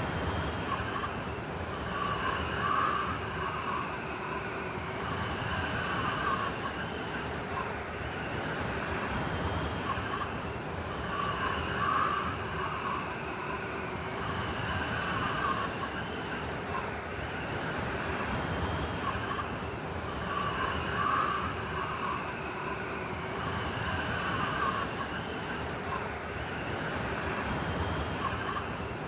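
Blizzard wind blowing steadily, with a brighter, wailing swell that comes back about every nine seconds.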